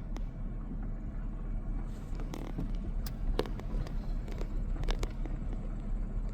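Car driving on a gravel country road, heard from inside the cabin: a steady low road and engine rumble with scattered sharp ticks.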